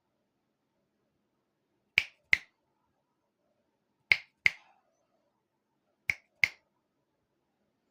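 Fingers snapping in three quick double snaps, about two seconds between each pair, as a call to the parrot.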